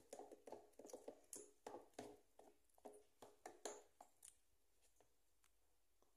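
A spoon stirring baking powder into corn cake batter in a blender jar: faint, irregular scraping and tapping strokes, two or three a second, that stop about four seconds in.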